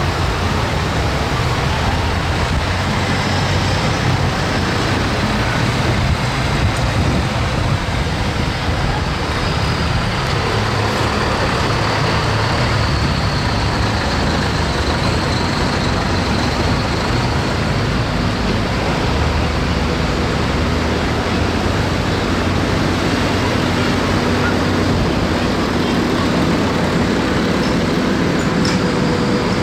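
Tractor engine running steadily while under way, with a continuous drone and road noise.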